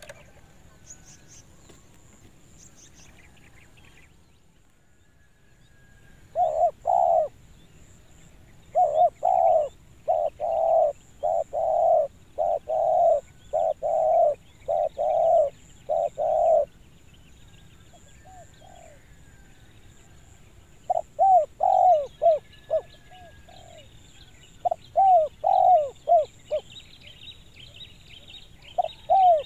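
Spotted dove (tekukur) cooing its clear 'kuk dua' call: a long series of about a dozen mellow, evenly spaced coos starting about six seconds in, then shorter bursts of coos near the end. Faint higher chirps of other birds come in towards the end.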